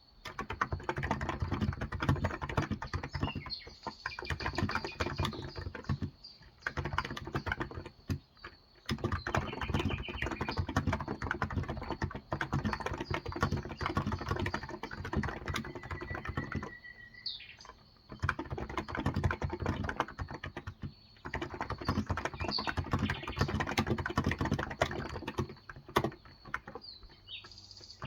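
Continuous fast typing on a Cox Endeavor electro-capacitive (Topre-style) 35 g tenkeyless keyboard, the keystrokes dense, with a few short pauses. Birds chirp faintly now and then in the background.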